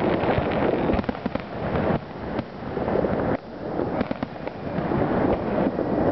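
Fireworks display: aerial shells bursting in quick, overlapping succession, a continuous run of bangs and crackling with no pause between them.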